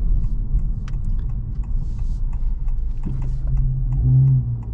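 Cabin sound of a 2023 Honda Civic Type R's turbocharged K20C1 2.0-litre four-cylinder engine running at low speed, a steady low drone. The engine note swells briefly about four seconds in, as the six-speed manual's gear lever is worked.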